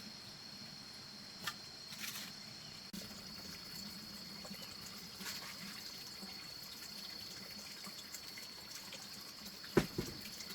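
Water trickling and dripping over a steady high insect drone, with scattered small clicks and one sharp knock near the end.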